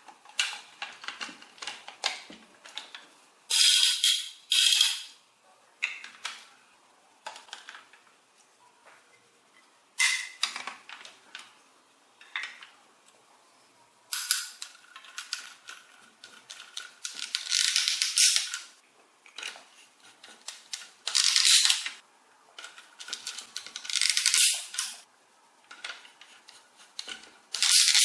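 Small plastic toy parts clicking and rattling as they are handled, with several louder, bright rattling bursts of about a second each.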